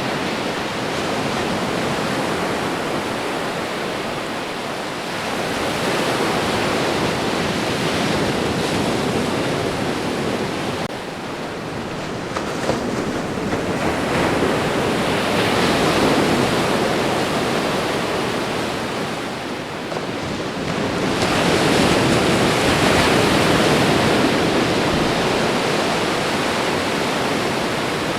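Ocean surf washing onto a shore: a continuous rushing hiss that swells and eases as each wave comes in, with the loudest surge about three-quarters of the way through.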